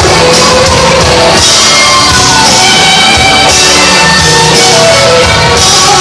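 Live blues-rock band playing loudly: electric guitar with bending, sliding notes over bass and drums.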